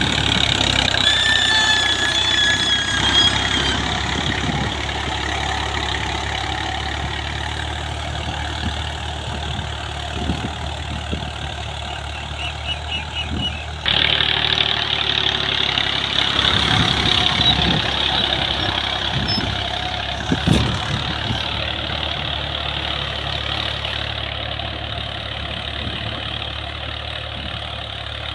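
Farm tractor engine running steadily, with a sudden jump in level about halfway through and a few short knocks in the second half.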